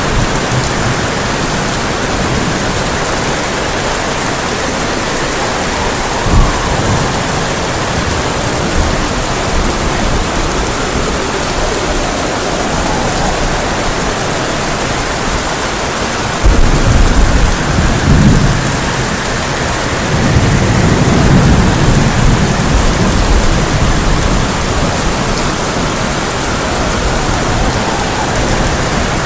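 Heavy rain falling steadily on a tin roof, with thunder: one short sharp crack about six seconds in, then a loud low rolling rumble that starts suddenly about halfway through and goes on for several seconds.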